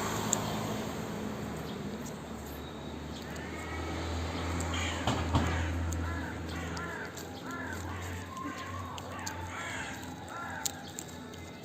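Crows cawing over and over, short rising-and-falling calls about twice a second through the middle of the stretch, over a low steady hum.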